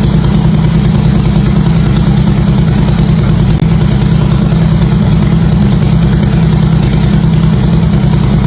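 Harley-Davidson V-twin engine idling steadily through its exhaust.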